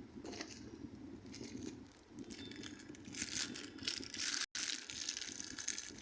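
Packaging rustling and crinkling in several bursts as a boxed Bluetooth speaker is unpacked, loudest about three to four seconds in, with a split-second dropout to silence shortly after.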